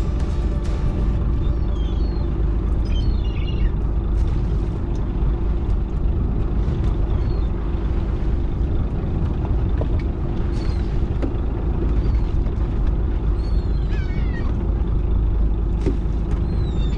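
Fishing boat's engine running steadily with a low rumble and hum, while birds call overhead in short falling cries several times, at the start and again about ten and fourteen seconds in.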